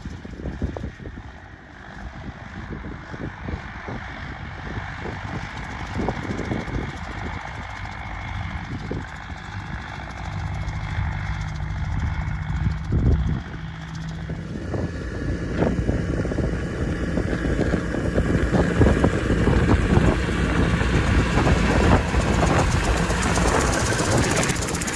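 Massey Ferguson 6255 tractor pulling a fertiliser spreader across a field, its engine running steadily and growing louder as it approaches, with its engine note coming through clearly from about halfway in.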